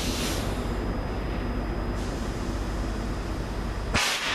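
Freight train in a railway station, a steady low rumble. A hiss fades out in the first second or two, and a sudden sharp hiss comes near the end and then fades.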